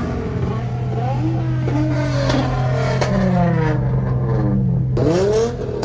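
Several car engines running and revving as cars pull away, over a steady low engine hum. One engine's pitch rises and falls about five seconds in.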